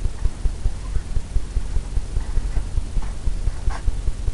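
Blender brush tapping on a stretched canvas: quick, irregular dull thumps, several a second, as the paint is softened and blended.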